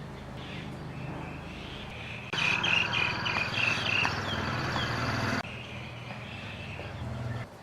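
Morning outdoor ambience: small birds chirping over a steady high insect trill, with a low hum underneath. A louder stretch starts abruptly a little over two seconds in and cuts off about three seconds later.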